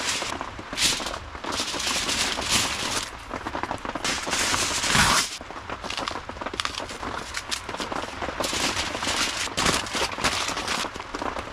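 Wood fire crackling and popping, with many sharp snaps and bursts of hiss.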